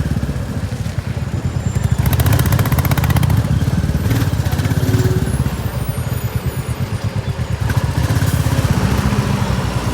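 Motorcycle engine running under way, a steady, rapid low exhaust beat, with rushing noise over it from riding.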